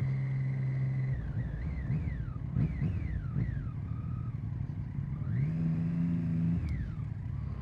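Motorcycle engine on the move, heard against a rush of road noise. The note holds steady, drops about a second in and wavers up and down for a few seconds, then rises again around five seconds in, holds, and falls off near the end.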